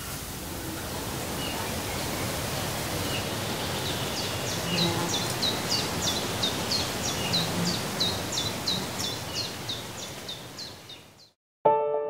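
Outdoor ambience with a steady hiss, and from about four seconds in a bird calling a fast series of short, high, falling notes, about three a second. It all fades out near the end.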